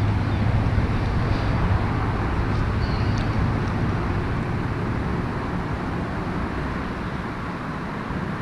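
Steady rushing wind noise on the microphone, with a low hum that fades out about halfway through.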